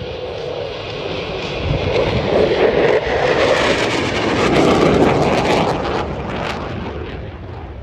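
Eurofighter Typhoon FGR4's two Eurojet EJ200 turbofans: loud jet noise that swells to its loudest in the middle, with a ragged crackle, then fades away near the end as the fighter passes.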